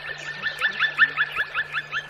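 A bird calling a rapid, even series of short chirps, about six a second.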